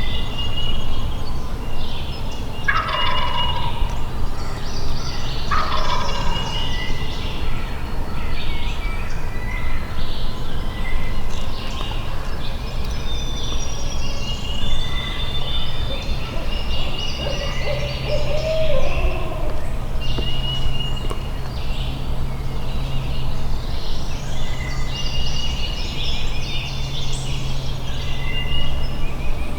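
Wild turkey gobbling, two loud falling gobbles a few seconds apart near the start, with songbirds chirping throughout and a steady low rumble underneath.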